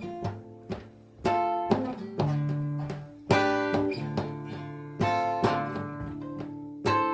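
Solo acoustic guitar playing an unaccompanied introduction. It starts with single picked notes, about two a second, then from about a second in it moves to fuller strummed chords, each left to ring out.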